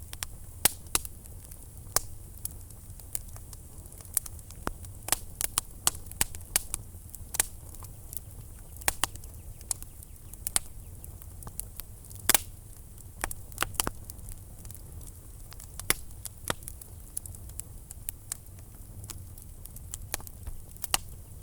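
Wood fire burning in a fireplace: irregular sharp pops and crackles of burning logs, several a second, over a steady low rumble of the flames.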